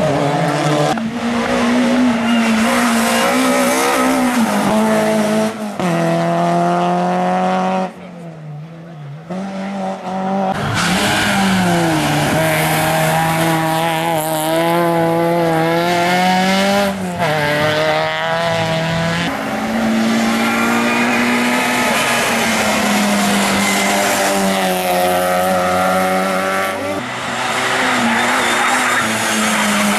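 Race car engines revving hard and accelerating through the gears. The pitch climbs and then drops back with each shift, and there is a short quieter gap about eight seconds in.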